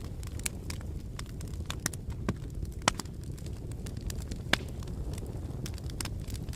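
Wood fire burning in a fireplace: irregular crackles and sharp pops over a steady low rumble of the flames, with two louder pops, about three and four and a half seconds in.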